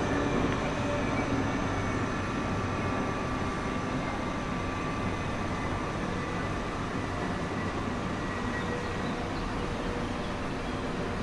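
A train running along the tracks: a steady rumble with a few faint, steady whining tones over it.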